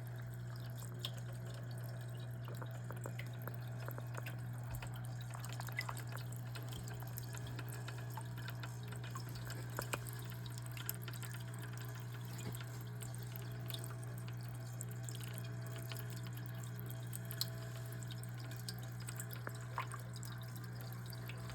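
Water from a small aquarium waterfall dripping and trickling over stones in irregular little drops, over a steady low hum.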